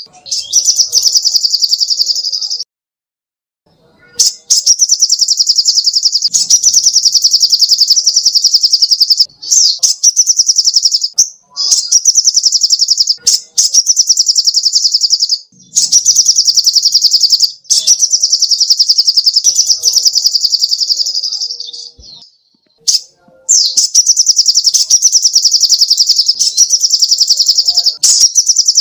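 Sogok ontong bird singing long, very rapid high-pitched trills, in phrases of one to four seconds separated by brief pauses.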